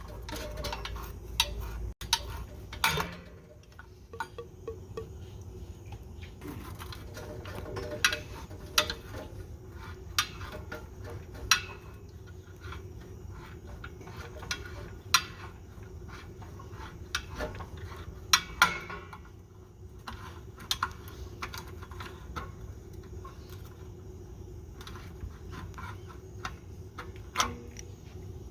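Irregular sharp metallic clicks and clinks of hand tools working on the water heater's pipes as its water lines are cut, over a steady low hum.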